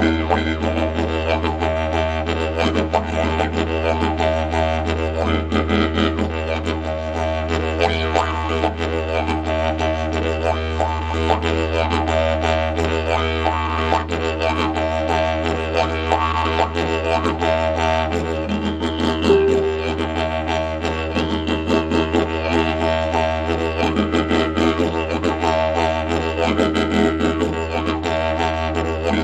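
Didgeridoo in the key of E playing an unbroken low drone, with its overtones shifting and pulsing above it.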